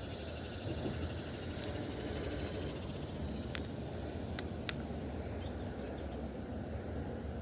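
Outdoor riverside ambience: a steady low rumble with a few faint short ticks about halfway through.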